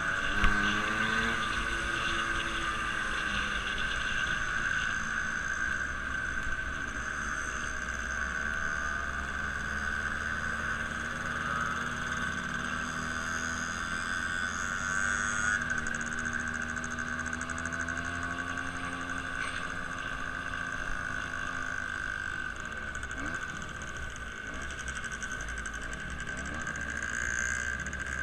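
An engine running steadily, its pitch slowly rising and falling.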